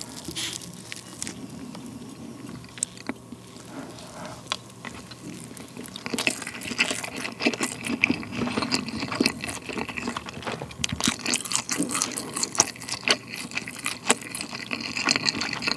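Close-miked chewing of a mouthful of rice mixed with grilled chicken and sauce: many small mouth clicks and crackles, growing busier about six seconds in.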